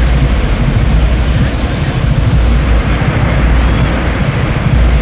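Wind buffeting the microphone in a heavy, uneven low rumble over a steady wash of surf.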